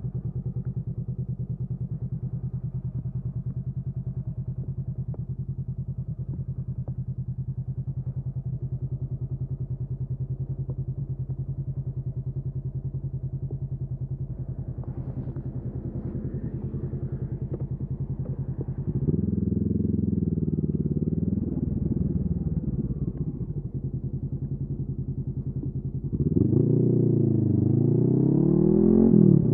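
Honda CB500F's parallel-twin engine through a LeoVince aftermarket exhaust, idling steadily, then revved up and down about 19 seconds in, and again, louder, about 26 seconds in.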